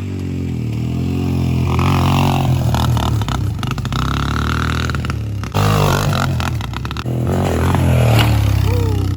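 Dirt bike engine running and revving, its pitch rising and falling, with abrupt changes about five and a half and seven seconds in.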